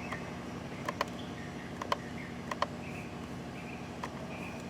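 Computer mouse clicking about five times, spread over the first three seconds, while trouble codes are selected on a diagnostic website, over a steady low hum. Faint high chirps come in during the second half.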